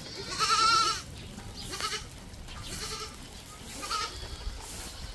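Goats bleating: one loud, quavering bleat about half a second in, then several fainter, shorter bleats.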